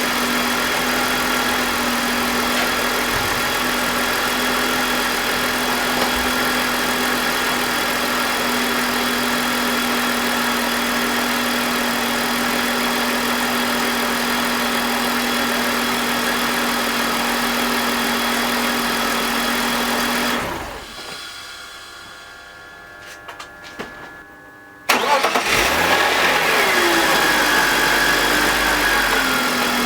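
BMW M52TU 2.5-litre straight-six idling steadily with its VANOS unplugged, then shut off about two-thirds of the way through. After a few seconds of quiet with a few small clicks, it restarts sharply and the idle comes down from a high start and settles. This is part of a test to trace a grinding noise to the VANOS.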